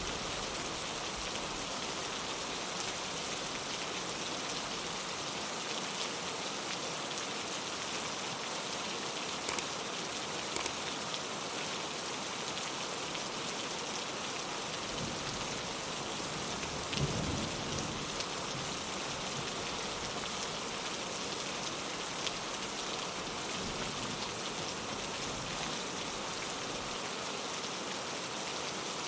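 Steady rain on a window pane, with a couple of sharper drop ticks about ten seconds in and a short low rumble of distant thunder a little past the middle.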